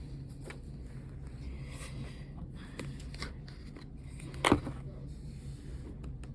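Small desk-work handling noises, light scrapes and taps, over a steady low room hum, with one sharper knock about four and a half seconds in.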